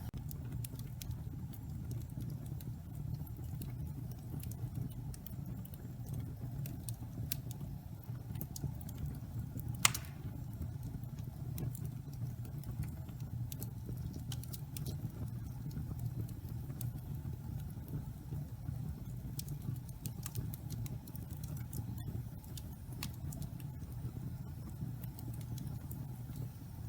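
Wood fire of damp pine logs burning in a fireplace: a steady low roar of flames with scattered crackles, and one loud pop about ten seconds in.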